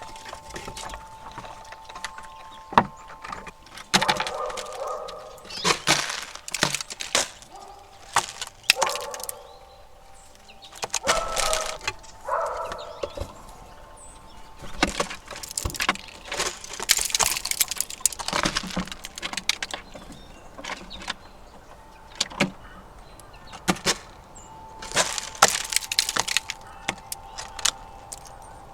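Squirrels gnawing and cracking walnut shells on a wooden platform feeder: an irregular run of sharp cracks, crunches and scratchy bursts. A faint steady high tone sits underneath.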